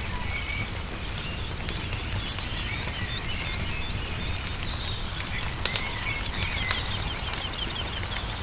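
Wood fire crackling with sharp pops over a low steady rumble, while small birds chirp and whistle; a quick run of repeated chirps comes about six seconds in.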